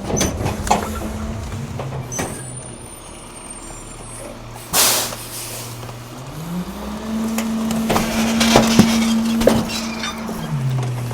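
Garbage truck engine running, then speeding up about six and a half seconds in and dropping back near the end as the compactor works the load. A short, loud burst of air hiss comes near the middle, and sharp cracks and knocks come as the trash is crushed.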